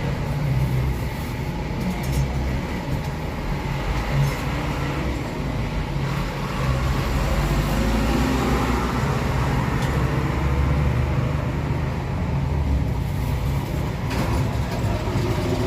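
Steady low rumble of road vehicles, with a light noisy haze and a few faint clicks over it.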